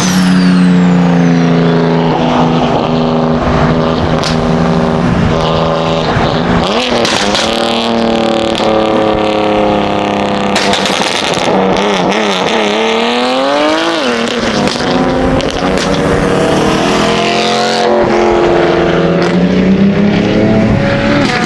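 Car engine running hard, its pitch holding, then dropping and climbing again through the revs, with a steep climb about two-thirds of the way in.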